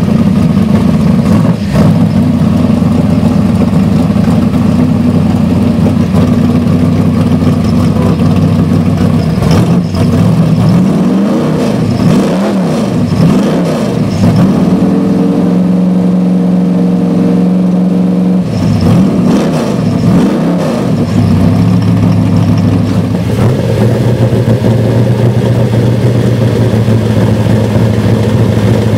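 Car engine idling steadily, then revved in three quick blips, held at raised revs for about four seconds, blipped twice more and dropped back to a steady idle, as a demonstration revving of the engine.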